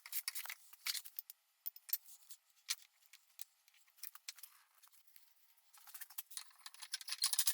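Hand plane shaving wood: faint, irregular short scrapes and ticks, growing denser near the end.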